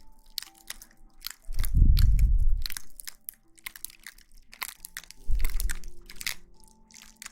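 Close-miked ASMR rustling: dense, crisp crackling right against the microphone, with two low, muffled thumps, one near 2 s and one just after 5 s. Soft background music plays faintly underneath.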